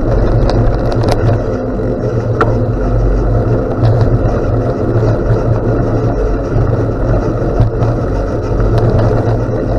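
Wind buffeting the microphone over bicycle tyres rolling on a gravel road, a steady rumble with a few small ticks of loose stones.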